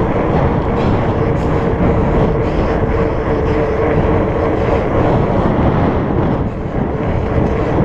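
Wind rushing over the microphone and the steady hum of 4.8-inch Surly Knard fat-bike tyres rolling fast on pavement, with one steady tone running under the noise.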